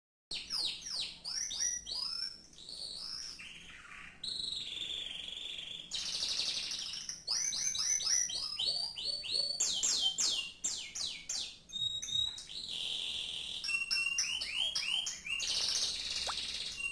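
Domestic canary singing a long, varied song. Quick runs of falling whistled notes alternate with held buzzing rolls at a high pitch.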